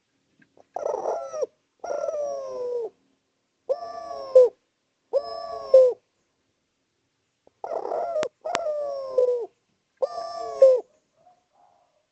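Spotted dove cooing: a run of seven short coo phrases, each a low falling note that ends in a sharper accent. Two sharp clicks come about two-thirds of the way through.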